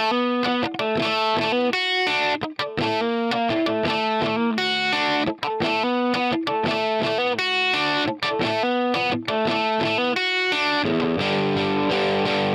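Distorted electric guitar playing a choppy riff of short chords, recorded dry. About eleven seconds in, the sound turns smooth and continuous as the riff comes back through a lush Paragon ST reverb preset.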